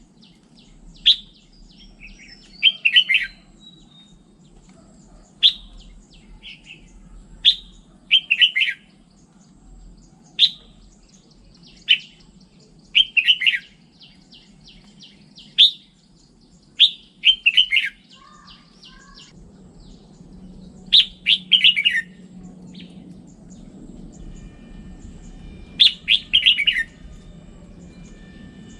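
Red-whiskered bulbul singing: short, quick chirpy phrases repeated every one to three seconds, with single sharp notes in between.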